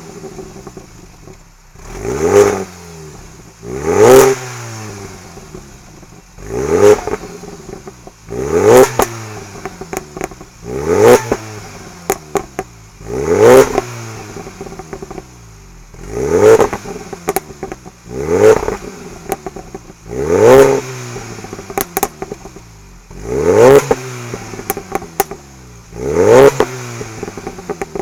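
Mini Cooper S John Cooper Works engine revved in short blips, about eleven in all, one every two to three seconds. Each rev climbs sharply and drops back, followed by scattered crackles and pops from the exhaust as the throttle is released.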